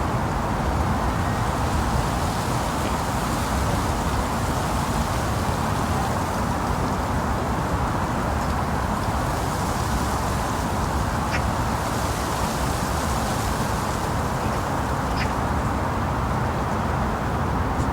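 Steady rushing outdoor background noise with a few short, high bird calls in the second half.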